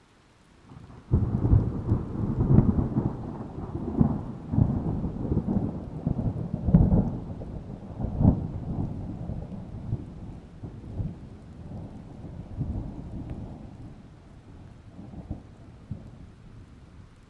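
Thunder: a sudden loud clap about a second in, then a long rolling rumble with repeated swells that slowly dies away.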